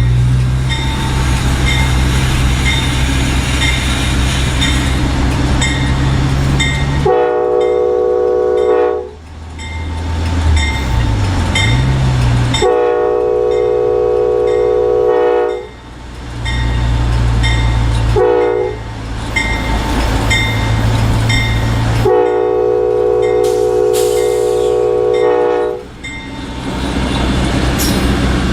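Diesel locomotive's multi-chime air horn sounding the grade-crossing signal, two long blasts, one short and one long, over the steady rumble of the engine. A bell dings steadily about twice a second throughout.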